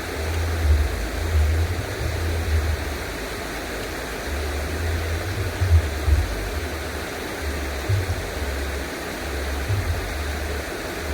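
Steady rushing noise of flowing water, with irregular low rumbling of wind buffeting the microphone.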